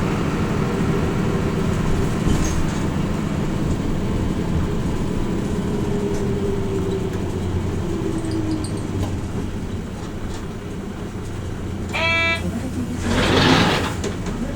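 Interior sound of a Hino Rainbow RJ (P-RJ172BA) route bus driving, its diesel engine and road noise steady and then easing off about two-thirds of the way through. A short electronic tone sounds near the end, followed by a brief burst of air hiss.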